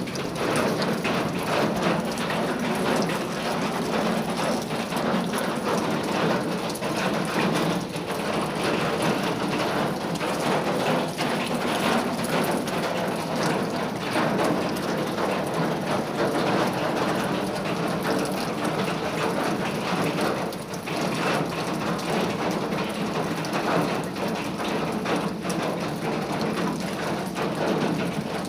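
Steady rain drumming on a sheet-metal roof, a dense even patter of countless small drop impacts.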